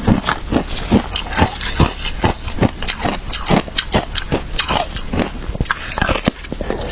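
Someone biting and chewing frozen shaved ice flavoured with matcha: a dense, irregular run of sharp crunches, several a second.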